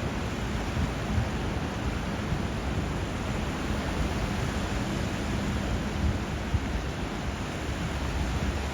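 Steady rush of water where a river meets sea surf: an even noise with a deep low rumble, no single wave or splash standing out.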